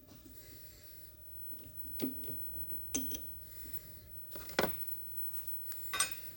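Steel parts and tools being handled and set down, giving about four separate metal clinks and knocks, two of them ringing briefly.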